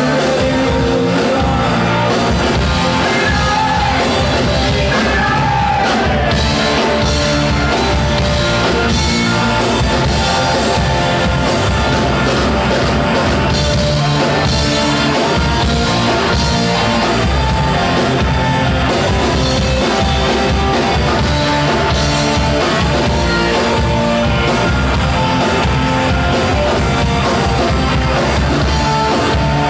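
Live rock band playing a loud, steady rock song: drums, electric guitars and bass, with a singer's voice over them.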